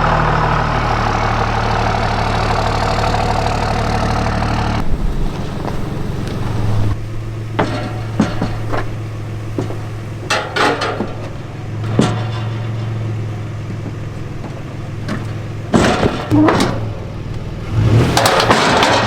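A vehicle engine idling steadily, with a string of short sharp knocks and clanks over it in the second half.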